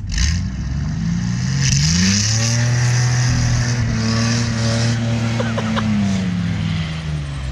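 Truck engine revving hard under load while driving through snow. Its pitch climbs over about two seconds, holds high for a few seconds, then drops back near the end.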